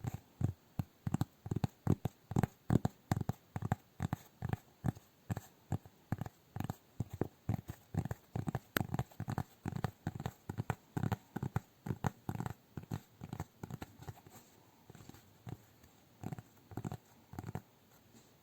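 Fingers tapping rhythmically on cork, about three soft knocks a second, growing quieter and sparser near the end.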